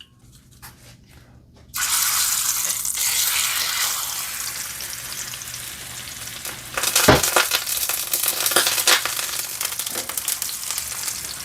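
Seasoned, half-frozen chicken thighs laid into hot oil in a pan: a sudden loud sizzle about two seconds in, settling into steady frying, then flaring again with sharp crackling pops around seven seconds in.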